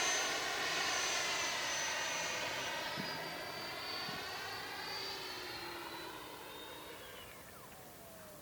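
Electric ducted fan of a Freewing 90mm J-10 RC jet whining in flight. It is loudest at the start as the jet passes close, then fades as it moves away. About seven seconds in, the whine falls sharply in pitch.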